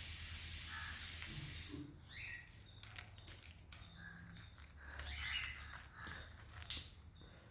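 Sun conures giving soft chirps, about two seconds in and again about five seconds in, with scattered small clicks. A steady hiss fills the first couple of seconds.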